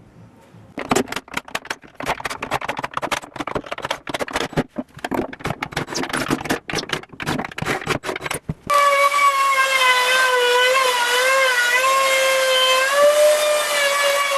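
Dense, rapid rattling and knocking for most of the first nine seconds. Then a power tool's electric motor runs with a steady whine that wavers slightly in pitch.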